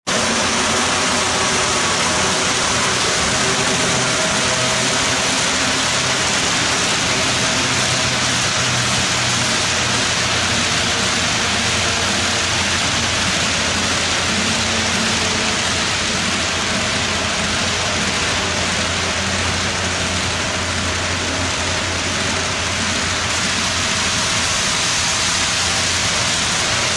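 Loud, steady hiss of static, like white noise, that switches on abruptly and holds an even level throughout.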